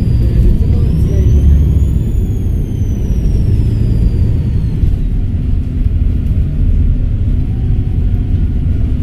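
Volvo B7RLE bus's six-cylinder diesel engine rumbling, with a high turbocharger whistle. The whistle rises about a second in, then slowly falls away and fades out around halfway through.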